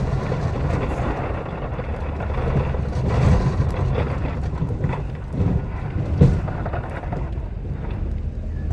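Ford F-250 6.7-litre Powerstroke diesel pickup running under load as it pushes snow with its plow blade, a steady rumble with a few knocks and thumps, the loudest about six seconds in.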